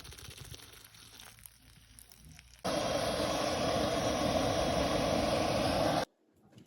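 A steady rushing noise that starts suddenly a few seconds in and cuts off just as suddenly about three seconds later, after a stretch of faint hiss.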